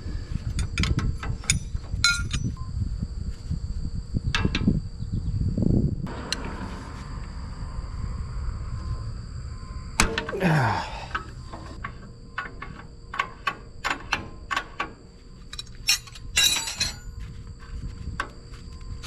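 Scattered clicks, clinks and knocks of hard objects being handled, with a sound that falls in pitch about ten seconds in.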